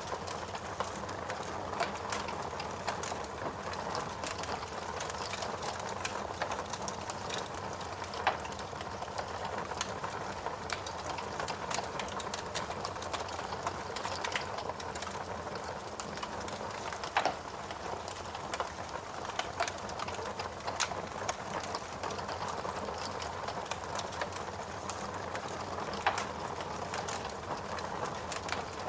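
Wood fire burning in a fireplace: a steady hiss with many small crackles and a few louder pops spread through it.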